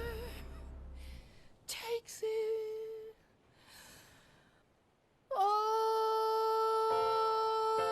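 A sung note glides and fades out. About two seconds in comes a brief hummed note, then near silence. About five seconds in a soft sustained keyboard chord begins and holds steady.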